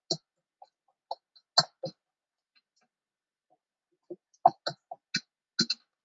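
Thick pastry cream being stirred in a pot over the heat: about a dozen short, irregular soft knocks and clicks.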